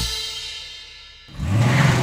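The last chord of a swing-style brass intro tune rings out and fades with a cymbal. About a second and a half in, a loud car-engine sound effect starts suddenly and keeps running.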